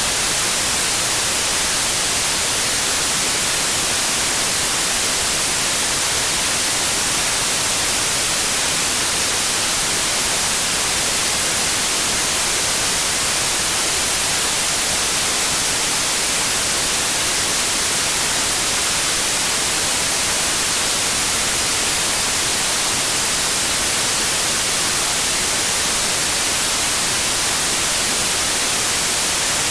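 Synthetic white noise: a steady, even hiss with no change, brightest in the high frequencies.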